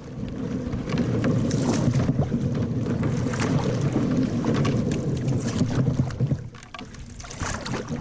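Wind rushing over the microphone and water splashing around a canoe under way on choppy water; it drops quieter for a moment about six and a half seconds in.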